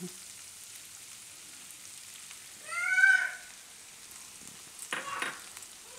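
Faint sizzling of purple cabbage frying in oil in a kadai as boiled sweet corn kernels are added. About three seconds in, a short high squeal rises and falls in pitch, and near the end there is a brief clatter.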